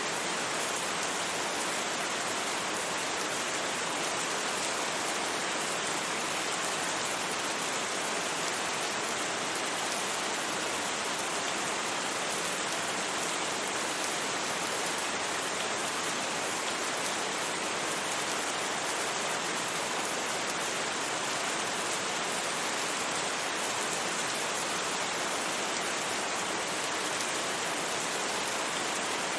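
Steady rain, an even hiss without thunder and with no single drops or knocks standing out.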